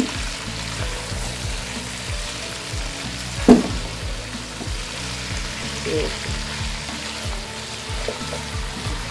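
Shredded cabbage and chicken sizzling in a pot while being stirred with a wooden spatula, with one sharp knock of the spatula about three and a half seconds in.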